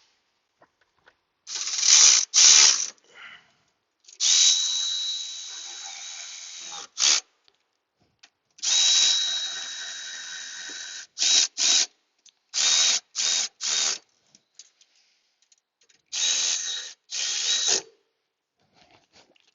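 Small cordless 1/4-inch drive power tool with a 10mm socket, running in about a dozen bursts, some brief and some two to three seconds long, with a high motor whine, as it runs down the nuts and snugs them tight on the ground connections.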